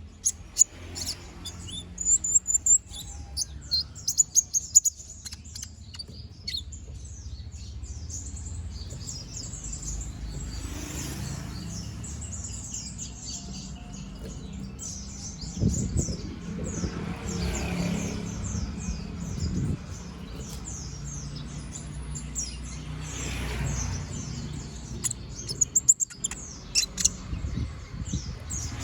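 Kolibri ninja (a small sunbird) singing a fast, continuous chattering song of high chirps and trills, with runs of loud, sharp call notes near the start and again near the end.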